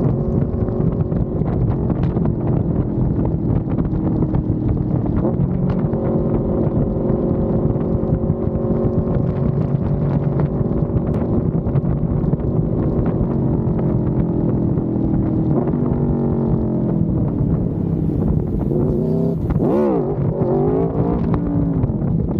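Aprilia Tuono V4 motorcycle's V4 engine running at a steady speed under way, with wind rush. About two-thirds through the engine note falls as it slows, then it is blipped up and down a few times near the end.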